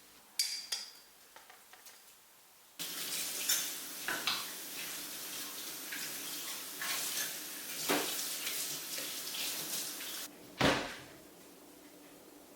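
Crockery clinking, then a kitchen tap running for about seven seconds with dishes clattering under the stream. The water cuts off suddenly and is followed by one loud knock.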